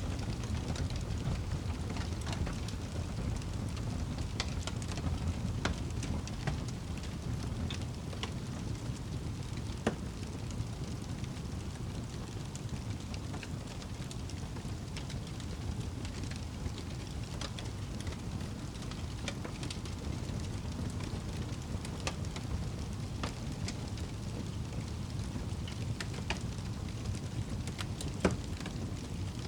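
Wood fire burning in a fireplace: a steady low rumble of flames with irregular crackles and pops, one louder pop near the end.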